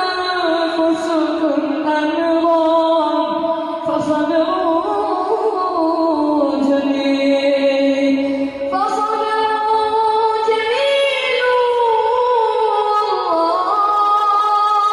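A man's voice reciting the Quran in a slow, melodic chant (tajwid), holding long notes that glide and step up and down in pitch, with no pauses.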